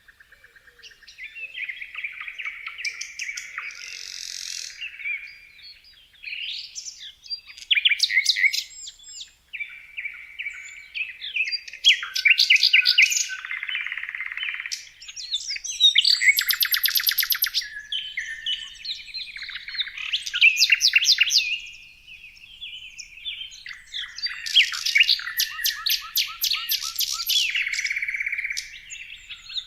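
Songbirds singing and chirping, several different songs overlapping: rapid trills, quick chirps and short whistled phrases, coming in bouts every few seconds.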